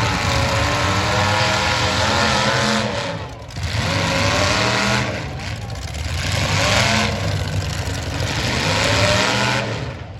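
Demolition derby cars' engines revving hard, pitch rising and falling over and over, with a brief drop in loudness about three seconds in.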